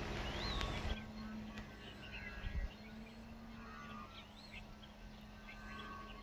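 Songbirds chirping: scattered short calls that sweep up and down in pitch. A steady low hum runs underneath, with a low rumble in the first second.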